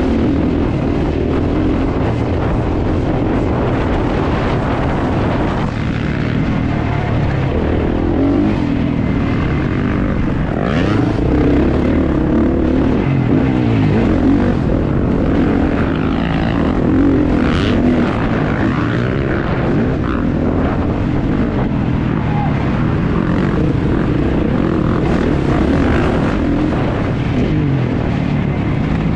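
Kawasaki KX450 motocross bike's single-cylinder four-stroke engine running hard under a rider, its pitch rising and falling as the throttle opens and closes, with wind rushing over the action camera's microphone.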